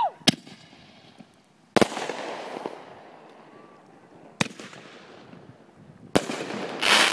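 A 500-gram consumer firework cake firing, giving five sharp bangs one to two and a half seconds apart. Two of them trail off into about a second of crackling hiss.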